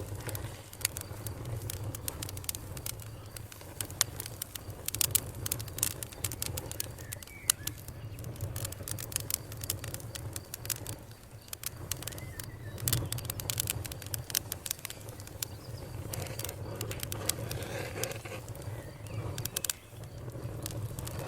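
Campfire crackling, with many sharp irregular pops and snaps over a steady low rumble. Birds chirp faintly now and then.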